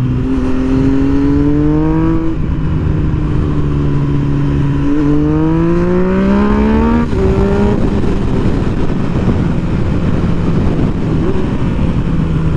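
Motorcycle engine pulling hard, its pitch rising and then dropping at a gear change about two seconds in and again about seven seconds in, then settling into a steady cruise, over a steady rush of wind noise on the microphone.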